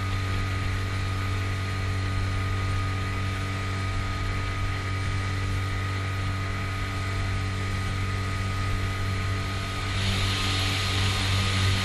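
Mercury 9.9 hp outboard motor running at a steady speed with a constant low hum. About ten seconds in a hiss joins it and the engine sound starts to pulse.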